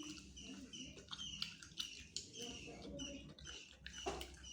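Small birds chirping over and over, short high falling chirps a few times a second.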